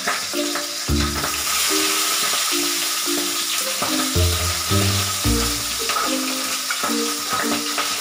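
Fish head pieces sizzling as they fry in very hot mustard oil in a wok: a steady hiss. Background music with a simple melody and occasional bass notes plays over it.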